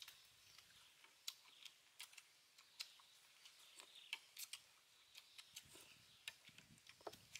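Faint eating sounds: irregular small clicks and smacks, several a second, of people chewing and gnawing meat off beef rib bones.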